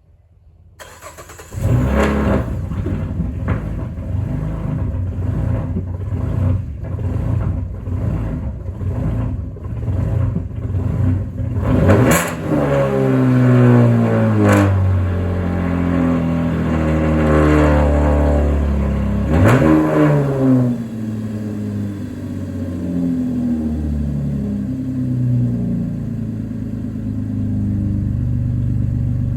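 A 2012 Chevrolet Impala's 3.6-litre V6, straight-piped with no muffler, catalytic converter or resonator, catches about a second and a half in and runs with a surging pulse. It is revved up and down several times around the middle, then settles to a steady idle.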